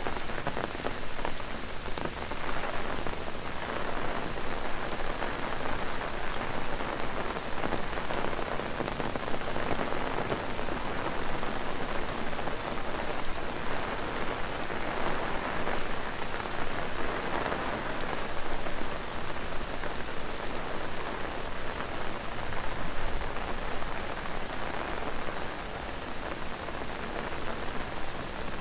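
Heavy rain pattering on an umbrella, dense and steady, with a cicada chorus holding one steady high drone over it.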